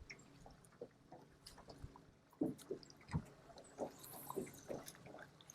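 Faint scattered clicks and small splashes of water, about a dozen short taps spread over a few seconds.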